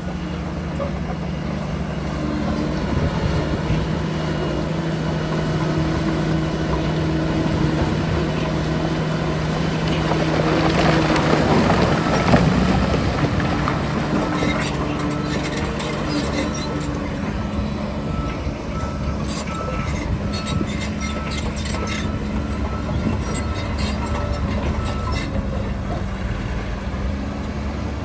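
Heavy diesel earthmoving machinery running steadily. It swells into a louder rushing surge about halfway through, followed by scattered clicks and knocks.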